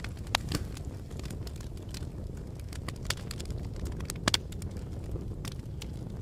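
Fire crackling: a low, steady noise of burning with frequent sharp, irregular pops, the loudest a quick double pop a little after four seconds in.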